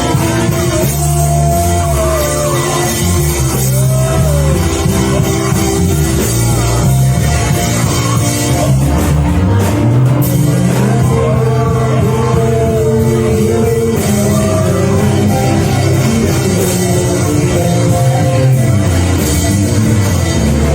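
Live worship band music: a bass line stepping between notes under sustained chords, with short gliding melody lines above.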